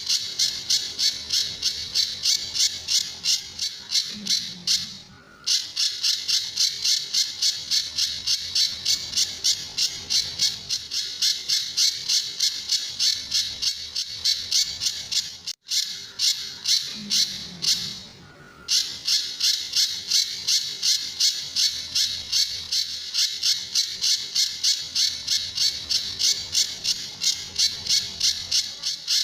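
Pijantur bird calling in a fast, even series of sharp high-pitched notes, about three a second, broken by short pauses about five seconds in and again around eighteen seconds.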